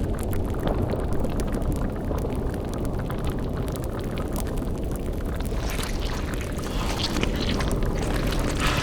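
Layered dark-ambience sound effects: a continuous deep rumble with fine crackling over it. About halfway through, a hissing swell builds in the upper range.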